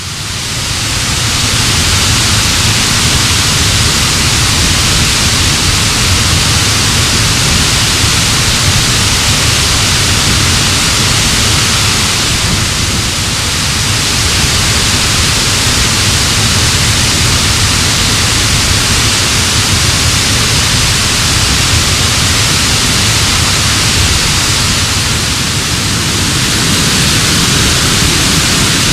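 Waterfall rushing: a mountain creek tumbling down steep rocks, a loud, steady, even wash of water noise that fades in at the start.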